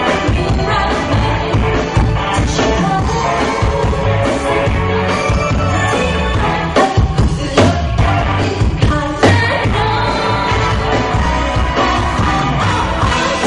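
Rock music with singing, a full band with a steady beat. A few sharp drum hits stand out about seven to nine seconds in.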